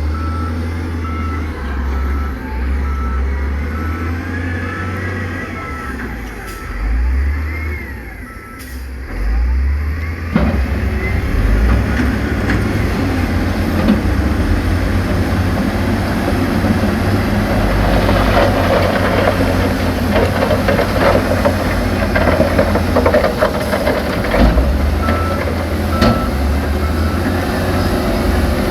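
Diesel heavy machinery running with a reversing alarm beeping steadily at first; from about ten seconds in, loud clattering and grinding of rock as the machines work the load, with the beeping returning near the end.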